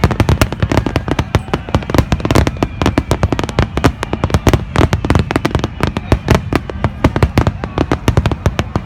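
Aerial fireworks bursting in a rapid barrage: a dense, irregular run of sharp bangs, several a second, with no let-up.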